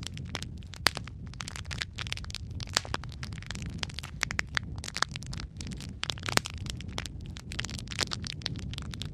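Fireplace fire crackling: frequent irregular snaps and pops over a low, steady rumble of burning.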